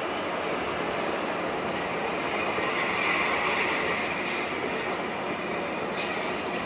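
Steady rumble and road noise of a moving coach bus, heard from inside, with a swell in a hissing band about three seconds in.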